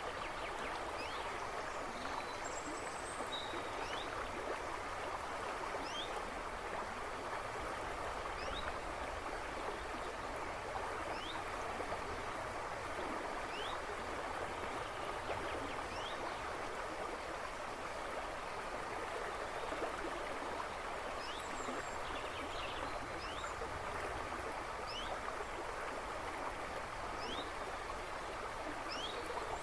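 A river rushing and babbling steadily over stones, with birds chirping in the woods behind it: many short, quick rising chirps scattered throughout.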